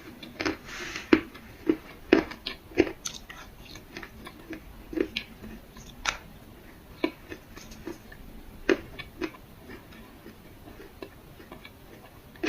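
Crunching and chewing of black clay: irregular sharp crunches, several close together in the first few seconds, then thinning to scattered single crunches.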